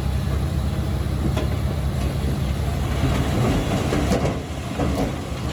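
Diesel engine of a Komatsu D21P crawler bulldozer running steadily under a rattling clatter of its steel tracks. The clanking grows heavier, with a couple of sharp knocks, in the second half.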